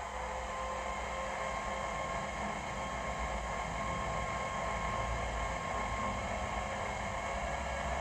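Digital sound of a Class 56 diesel locomotive engine running steadily, with a low rumble and turbo-like whines. It is played by the model's ESU LokSound V5 decoder through its small speaker. The whine begins to rise in pitch near the end as the engine revs up.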